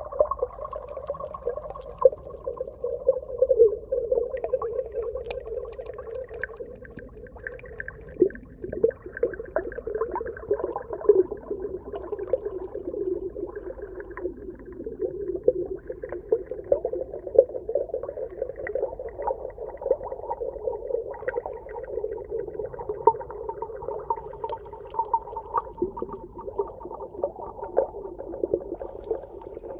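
Underwater ambience: a continuous wavering, moan-like tone with many short clicks and crackles scattered through it.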